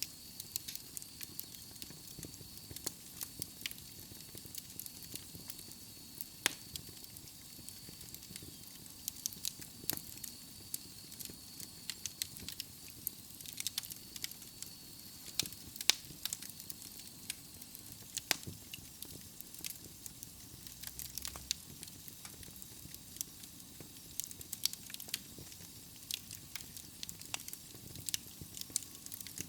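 Wood fire burning in a fireplace: irregular sharp crackles and pops from the burning logs over a low steady rustle. A faint high whistle runs through the first half.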